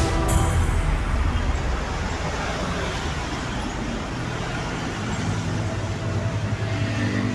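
Highway traffic: a large vehicle passing, with tyre noise and a low engine rumble that deepens into a steady drone about halfway through.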